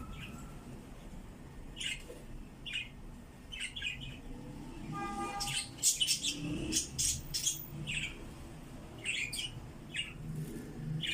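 Small birds chirping in short, sharp calls, a few at a time at first and then a quick flurry about halfway through.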